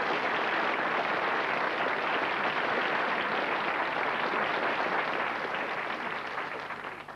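Studio audience applauding steadily, then dying away near the end.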